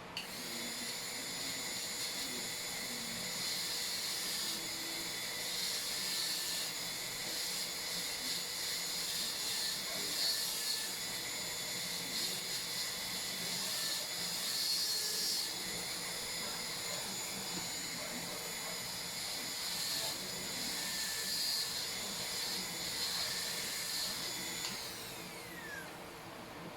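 High-speed dental handpiece (air-turbine drill) whining steadily as it cuts a cavity preparation in a lower molar, its pitch and level wavering under load. Near the end it spins down with a falling whine.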